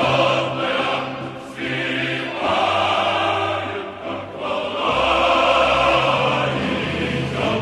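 Background music: a choir singing in long held notes, with a brief pause between phrases at the very end.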